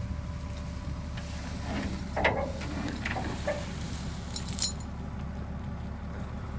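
Wheel loader's diesel engine running steadily, with metal clinking and rattling over it, loudest in a sharp jangle about four and a half seconds in.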